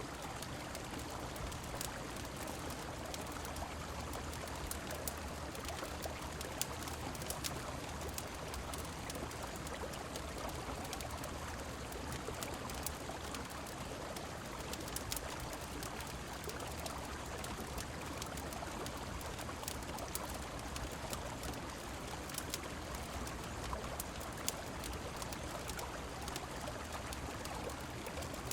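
Steady rush of a river with rain falling, dotted with scattered sharp crackles from a wood fire.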